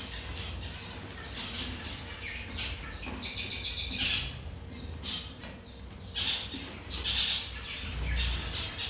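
Small cage birds calling with short, high chirps, including a quick run of chirps about three seconds in.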